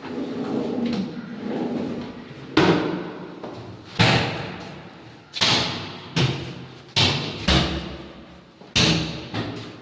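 A series of about eight slams and thuds, each dying away over about a second, in the manner of cabinet doors and drawers being shut.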